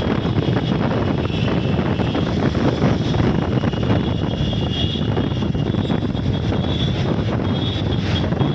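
Passenger train of LHB coaches running at speed: a loud, steady rumble of wheels on rail and rushing air, with a faint high whine over it. It cuts in suddenly at the start.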